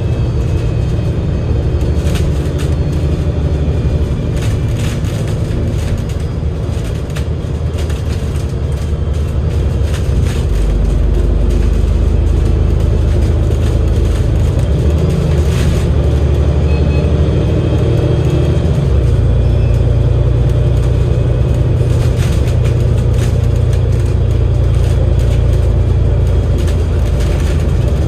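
Double-decker bus's Cummins L9 diesel engine and Voith DIWA automatic gearbox running under way, a steady low drone. The engine drone grows louder about ten seconds in and changes in tone again a little before twenty seconds.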